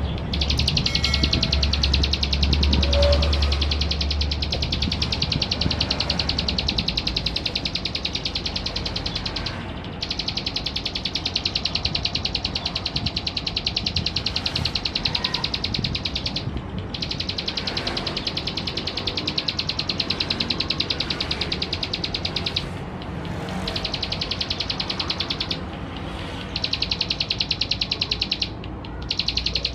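Male plain prinia (ciblek sawah) singing: long runs of rapid, buzzy repeated notes, broken by a few short pauses. A low rumble sits under the first few seconds.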